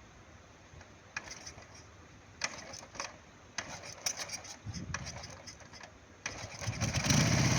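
M-72 motorcycle's side-valve flat-twin engine being started: a few scattered mechanical clicks and knocks, then the engine catches near the end and runs, getting louder.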